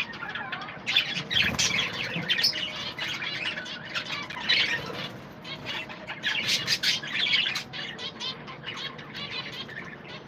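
A colony of budgerigars chattering and chirping, many birds calling over one another in a continuous warble.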